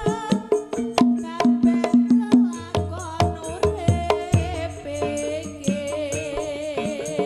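Live Javanese folk dance music from a percussion-led ensemble: drums strike a quick, regular rhythm under a pitched melody. About halfway through, a long wavering melodic tone is held.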